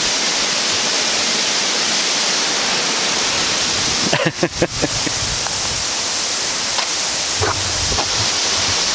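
Waterfall rushing, a steady dense hiss of falling water, with a brief cluster of short sounds about four seconds in.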